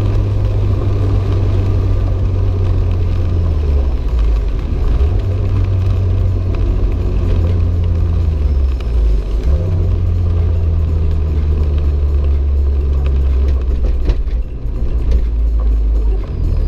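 Renault 5 GT Turbo's turbocharged four-cylinder engine running hard, a low drone that steps up and down in pitch several times as the revs change, with brief dips about two-thirds of the way through and near the end.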